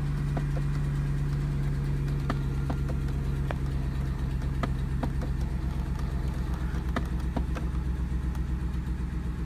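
Pickup engine idling steadily, heard from inside the cab, with irregular knocking clicks from behind the dashboard: a failing air door (blend door) actuator motor, the fault that has left no airflow to the windshield.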